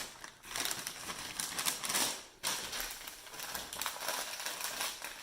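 Paper bag being folded and creased by hand, rustling and crinkling in short irregular crackles.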